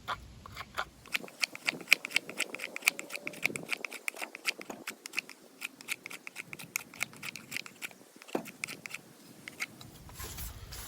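A knife shaving coarse curls off a dry Virginia pine fireboard: quick, short scraping strokes, several a second, making crisp clicks as the blade bites and the shavings come off.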